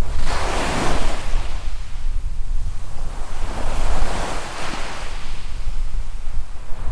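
Small waves breaking and washing up on a sand beach, two surges about three seconds apart, over a low rumble of wind on the microphone.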